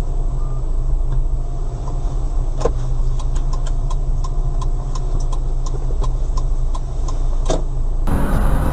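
Steady low rumble of a car's engine and road noise heard from inside the moving car, with a run of light, regular ticks in the middle; near the end a cut brings a brighter rumble from another car.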